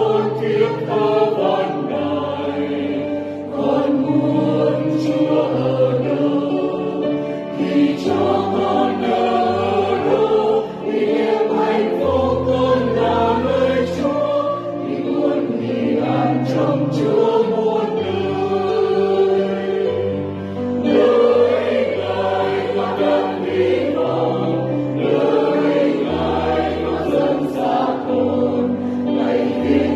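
A choir singing a Vietnamese Catholic hymn in held chords over accompaniment with a bass line that moves every second or two.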